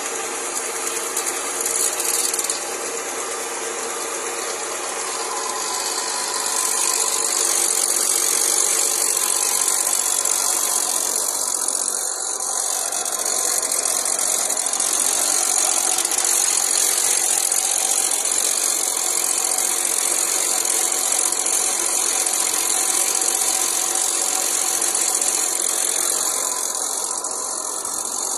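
Ford Aspire's 1.3-litre four-cylinder petrol engine idling with a steady mechanical clatter, heard close up in the open engine bay. About six seconds in, a steady rushing hiss joins it and stays.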